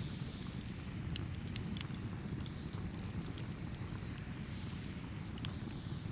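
Campfire burning with a steady low rumble and scattered sharp crackles and pops, a couple of louder snaps about one and a half to two seconds in.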